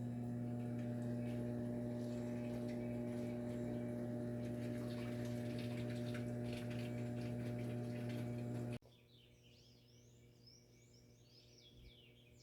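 A steady low hum with a single held pitch cuts off abruptly about nine seconds in, giving way to small birds chirping repeatedly.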